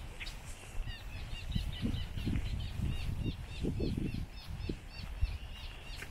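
A songbird singing a long run of quick, evenly repeated chirp notes, about five a second, starting about a second in. Low, uneven rumbling sits underneath.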